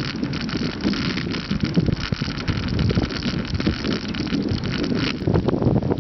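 Wind buffeting the microphone of a camera on a moving bicycle ridden into a headwind, over rolling tyre and road noise.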